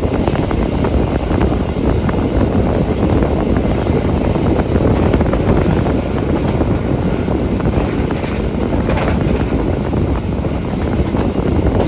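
Passenger train running at speed, heard inside a stainless-steel executive coach: a steady, loud low rumble of wheels and running gear with light clicks here and there. The rider finds the coach noisy for lack of sound damping.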